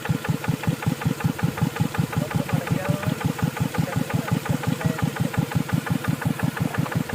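Two-wheel tractor's diesel engine running steadily with an even chugging beat, about six pulses a second.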